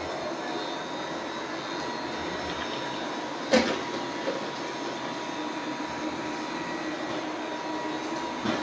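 Robot vacuum cleaner running with a steady whirring hum and a faint high whine. A sharp knock comes about three and a half seconds in, and a smaller one near the end.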